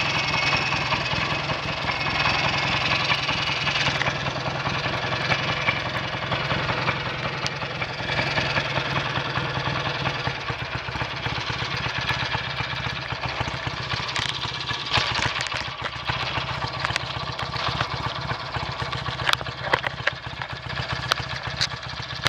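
BSA A65 650 parallel-twin engine running steadily with a misfire, which was later traced to dirt in one carburettor. Several sharp clicks come over it in the later part.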